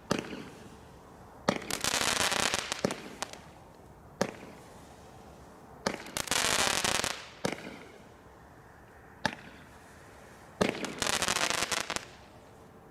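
Fireworks going off: about seven sharp bangs a second or two apart, three of them followed by about a second of dense crackling.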